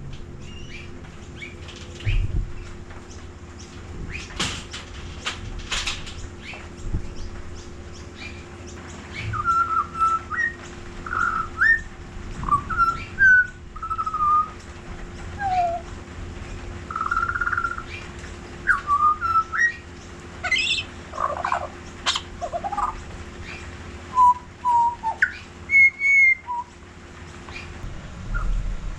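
A small magpie-like songbird singing: a run of clear whistled notes and short sliding phrases, beginning about nine seconds in, with a few short noisy rustles before it.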